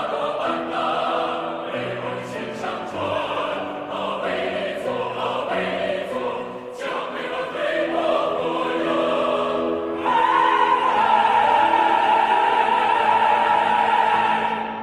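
Choir singing a Chinese folk song arrangement in several parts, with short shifting notes that then swell, about two-thirds of the way in, into a loud held final chord.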